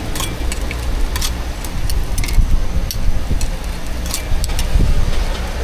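Metal spatula clicking and scraping against a hot griddle while egg pancakes are cooked, with many short sharp clicks over a steady low hum.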